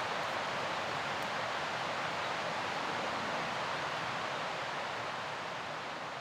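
Mountain river rushing steadily, fading out near the end.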